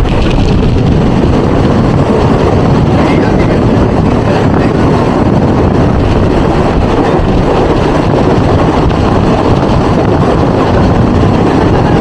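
Mumbai suburban local train running, a loud, steady rumble of wheels and carriage heard from aboard.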